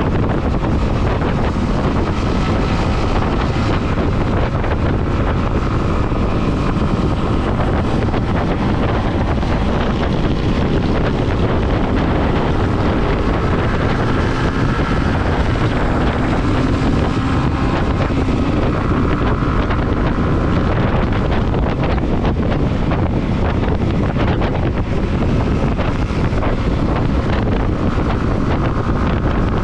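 Heavy wind rushing over the microphone of a camera on a moving motorcycle, with the bike's engine running underneath, its pitch drifting up and down with the throttle.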